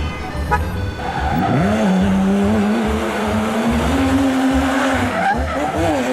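A motor or engine sound that starts up about a second and a half in, its pitch rising and then holding steady, with a few short rises and falls near the end.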